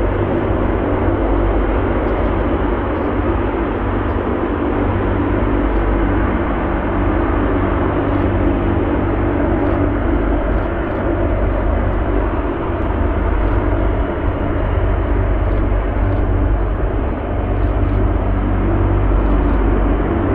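Jet airliner's engines running loud and steady, with a low hum held throughout.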